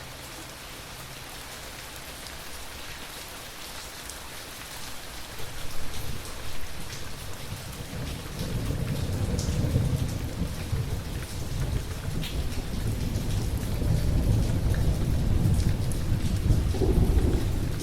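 Steady rain with the patter of scattered drops, and rolling thunder. The thunder swells briefly about a third of the way in, then grows into a long, low rumble through the second half.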